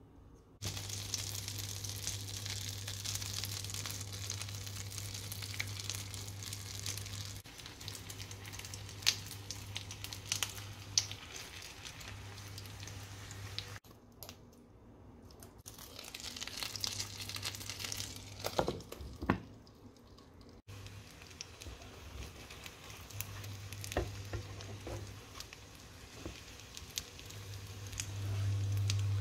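Filled crepes frying in butter in a nonstick pan: a steady sizzle with scattered sharp crackles and pops, over a low hum that switches on and off.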